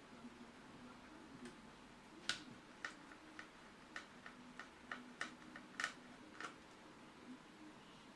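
A series of light, sharp clicks and taps, irregular at roughly one every half second, from hands and a tool working on a PC ATX power supply during disassembly.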